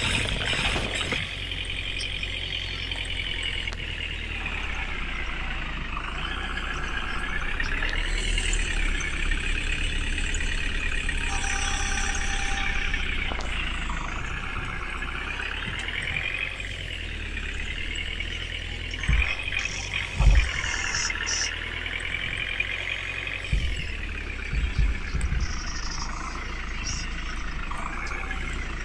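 Truck engine running under load, its pitch slowly rising and falling, with a few low thumps about two-thirds of the way through.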